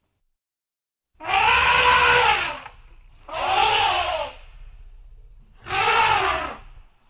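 Elephant squealing three times, each call about a second long and rising then falling in pitch.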